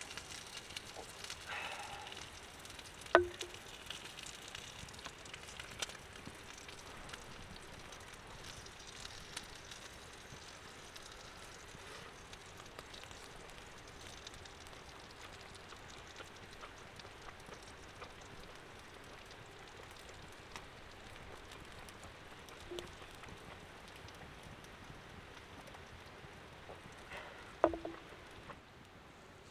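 Small wood campfire crackling steadily with faint pops, with two sharp knocks of wood or gear about three seconds in and near the end.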